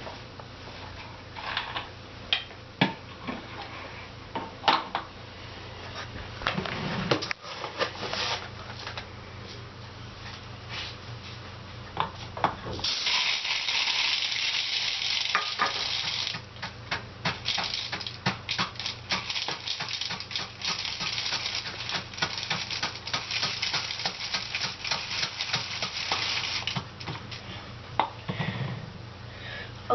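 Dry rice being poured through a funnel into a plastic pop bottle: a rushing hiss of grains for a few seconds about halfway in, then a long patter of grains trickling in with scattered clicks.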